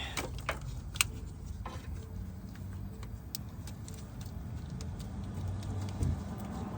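Scattered light clicks and taps, the sharpest about a second in, from hands working a serpentine belt around the pulleys in an engine bay, over a steady low hum.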